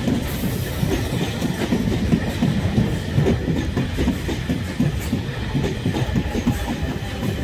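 Freight train of open engineering wagons rolling past, their wheels clattering steadily over the rails, with a Class 455 electric multiple unit running on the next line.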